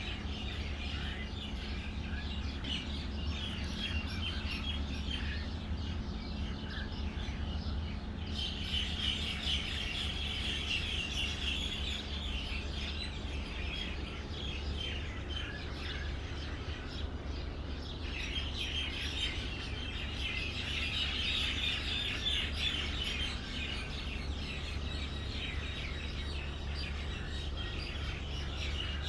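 Many small birds chirping at once in a dense, continuous morning chorus of quick high notes, louder in two stretches around the middle and later on. A steady low hum runs underneath.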